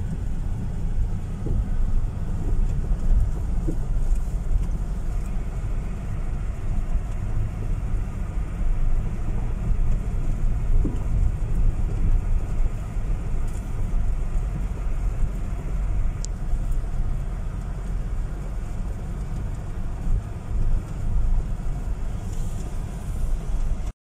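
Car driving slowly on a gravel road: a steady low rumble of engine and tyres on gravel, with a few faint knocks.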